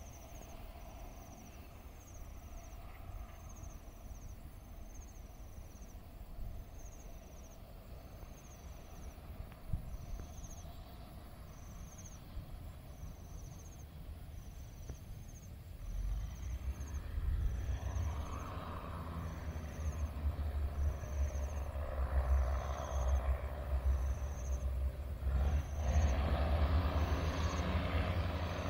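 Diesel-hauled local passenger train approaching along the track: a low engine rumble that grows louder from about halfway through. An insect chirps about once a second.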